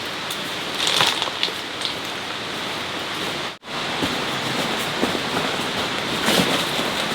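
Steady rain falling, with scattered sharper drops and taps. The sound cuts out for an instant about halfway through.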